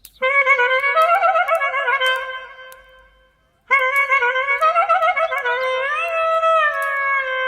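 Solo clarinet playing a slow, ornamented melody in two phrases. The first phrase fades out about halfway through, and after a brief silence the second phrase begins.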